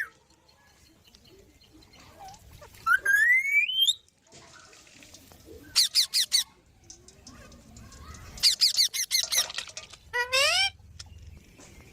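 Green parrot calling in separate high squawks: a rising screech about three seconds in, then a quick run of sharp chirps. Near the end come a burst of calls and a wavering, falling screech.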